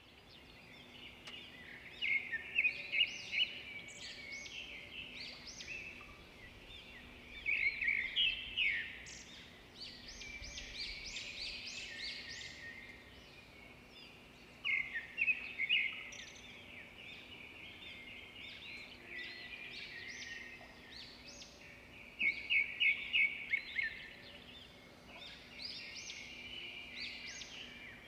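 Birds chirping and trilling in repeated bursts of quick, high notes over a faint steady hum.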